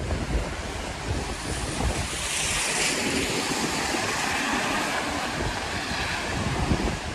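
Wind buffeting the microphone, with a loud rushing hiss from the rain-wet street. The hiss grows brighter about two seconds in.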